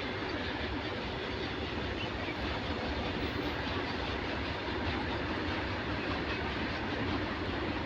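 Train passing at speed: a steady, even rush of wheel and rail noise with no horn.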